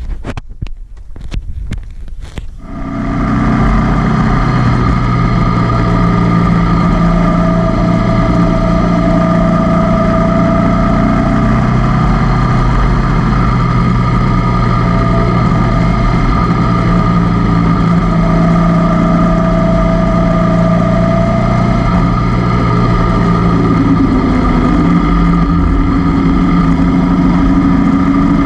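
Honda CB500X parallel-twin motorcycle engine running steadily under way, with small shifts in pitch. It comes in about two and a half seconds in, after a few short knocks.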